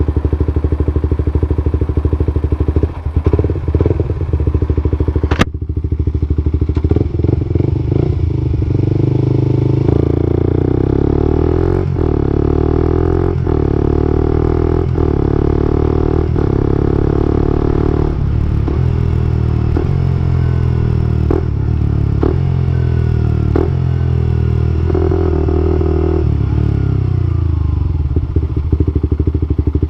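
Suzuki GSX-R125's single-cylinder 125 cc engine running through an aftermarket knock-off Akrapovic-style slip-on silencer. The engine note rises and falls in steps, with sharp knocks at intervals of roughly a second and a half through the middle of the stretch.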